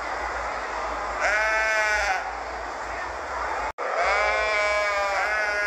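Sheep bleating: one bleat about a second in, then after a brief cut-out of the sound, two more bleats in quick succession over a steady background hiss.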